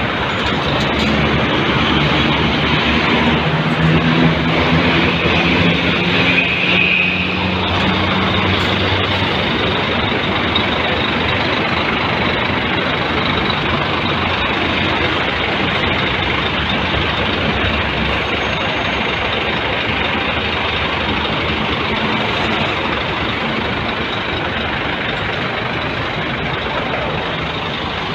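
Scania P360 6x4 hub-reduction truck running, its engine note shifting in pitch over the first several seconds, then settling into a steady, loud noise.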